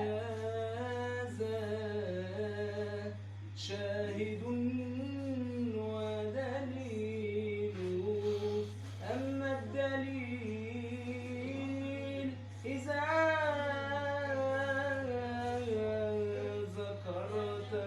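Solo male voice chanting an Arabic ibtihal (Islamic devotional supplication) without accompaniment, in long, ornamented, wavering held phrases with short breaks for breath. A steady low hum runs underneath.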